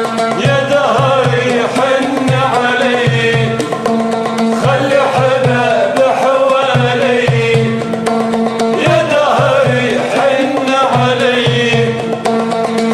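Arabic music: an oud plays an ornamented melody over a regular hand-drum rhythm and steady held notes.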